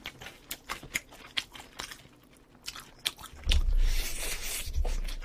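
Close-miked chewing of baked chicken: a run of wet mouth clicks and smacks, then about three and a half seconds in a loud crunchy bite into a piece held in both hands. The bite carries a heavy, boomy low end.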